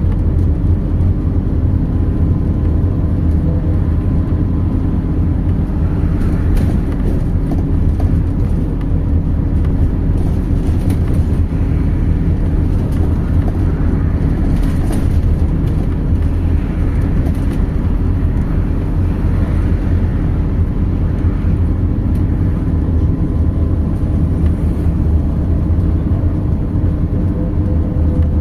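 MAZ 206.067 city bus heard from inside the passenger cabin while riding: a steady low engine and road hum, with a few light rattles in the middle.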